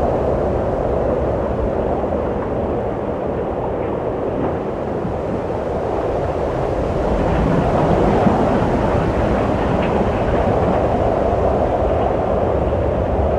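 Wind blowing steadily, a low rushing that swells a little about halfway through.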